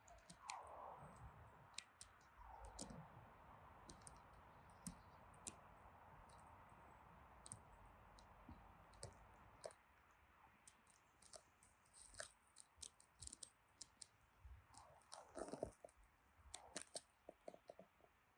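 Faint wild birds calling: many short, high chips and ticks throughout, with a few lower, falling calls near the start and again near the end.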